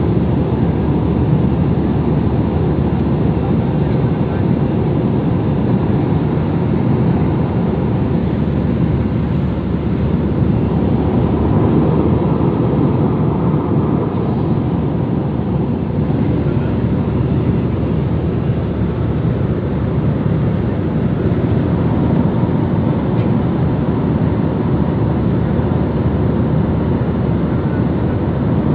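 Steady jet airliner noise heard inside the passenger cabin: engines and rushing air, low and even throughout.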